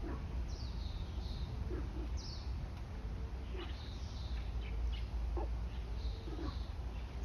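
Wild birds calling: short, falling chirps repeated every second or so, over a low steady rumble.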